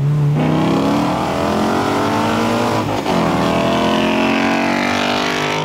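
Supercharged Scion FR-S's 2.0-litre flat-four under hard acceleration, heard from inside the cabin: the engine note climbs steadily, dips at an upshift about three seconds in, then climbs again through the next gear.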